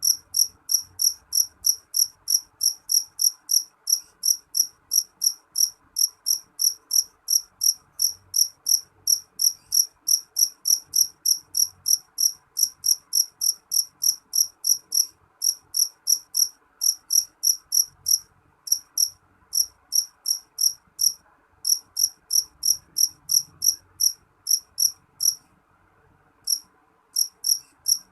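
A cricket chirping in a steady, high-pitched rhythm of about three chirps a second, with a few short breaks and a longer pause near the end.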